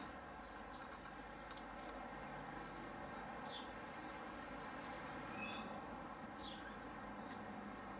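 Aviary birds giving short, high chirps now and then over a steady low background hum.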